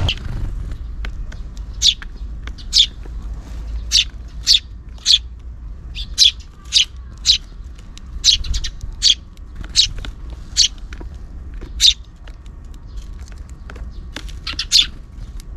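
Eurasian tree sparrows chirping: about twenty short, sharp single chirps at irregular intervals, over a steady low rumble of strong wind.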